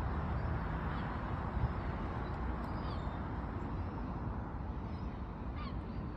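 Steady outdoor background noise with a couple of faint seagull calls, about two and a half and five and a half seconds in.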